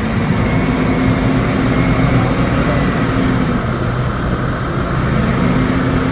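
Heavy diesel vehicle engine running hard under load. Its steady note eases off about three and a half seconds in and picks up again near the end.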